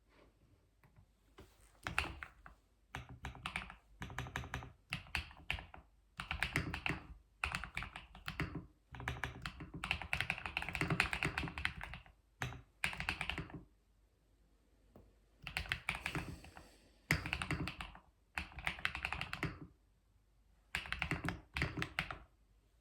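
Typing on a computer keyboard: quick runs of keystrokes lasting a second or two, broken by short pauses, starting about a second and a half in.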